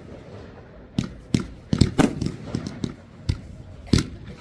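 Fireworks going off: a string of sharp bangs, about six or seven, irregularly spaced.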